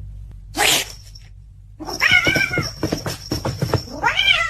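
Cat yowling: a long, wavering, drawn-out yowl, then a shorter meow that rises and falls near the end. A short noisy burst comes about half a second in, and a low hum runs underneath.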